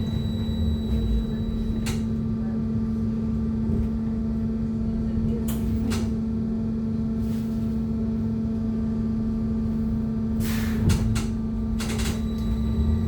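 Interior of a BKM-321 trolleybus under way: a steady electrical hum over the low road rumble, and a thin high whine that drops out about two seconds in and returns near the end. A few short hisses come through about halfway and again near the end.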